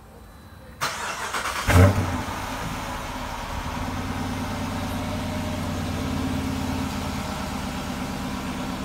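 2016 Dodge Charger R/T's 5.7-litre HEMI V8 starting: about a second of cranking, catching with a loud flare of revs near two seconds in, then settling into a steady idle.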